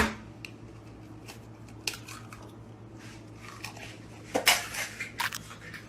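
Scattered light clicks and clatter over a steady low hum, with a louder run of clicks about four and a half seconds in.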